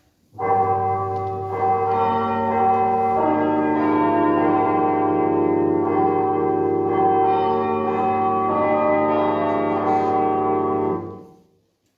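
Church bells ringing, a dense wash of bell tones with new strikes every second or two, stopping abruptly about eleven seconds in.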